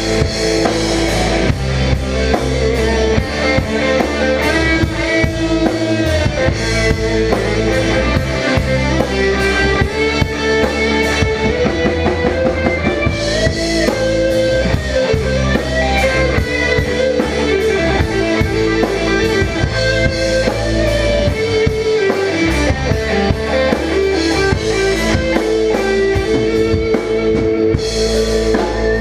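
Instrumental break of a rock song: a guitar plays the melody over a steady drum-kit beat.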